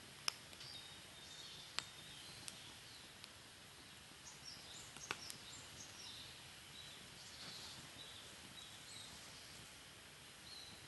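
Wood fire burning in a Picogrill 498 fire pit, crackling faintly with a handful of sharp pops over a low steady hiss; the loudest pop comes right at the start, another near two seconds in and two more around five seconds in.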